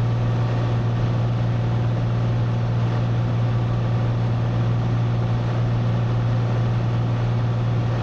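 Cessna 182 engine and propeller droning steadily in level flight: one unchanging low hum with a wash of noise over it.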